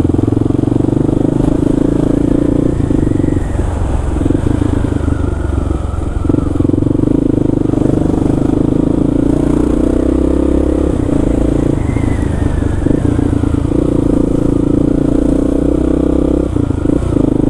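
Kawasaki KLR650's single-cylinder four-stroke engine running steadily while the motorcycle is ridden.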